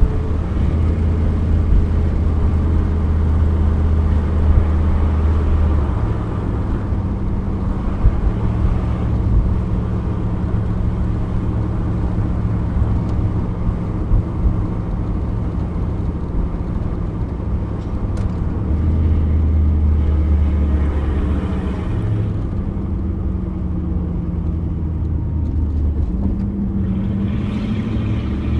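1987 Pontiac Firebird Trans Am's 5.7-litre TPI V8 running at a steady cruise, heard from inside the cabin as a low drone over tyre and road noise, its pitch shifting a few times as the throttle and speed change.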